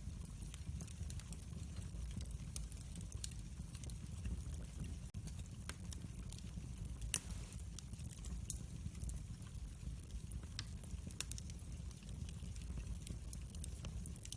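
Wood fire crackling: scattered sharp pops and snaps over a steady low rumble of the flames, with one louder pop about halfway through.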